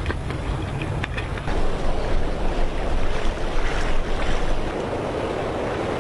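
Rushing water with wind buffeting the microphone, louder and rougher from about a second and a half in until about five seconds.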